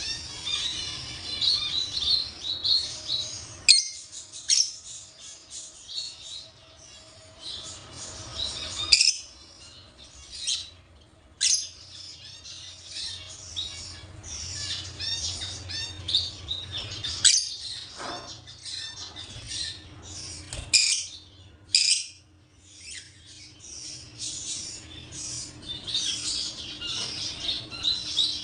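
A group of caged small parrots chattering and chirping continuously, with sharp, loud squawks cutting through every few seconds.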